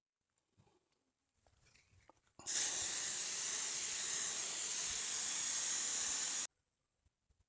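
A steady, loud hiss that starts abruptly a couple of seconds in, lasts about four seconds and cuts off suddenly.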